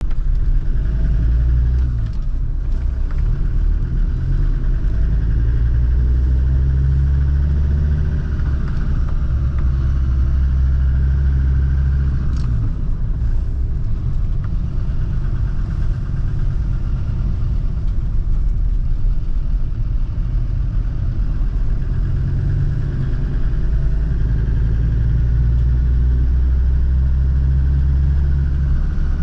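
Land Rover Defender TD5's five-cylinder turbodiesel engine running on the move, its deep note rising and falling several times as the engine speed changes.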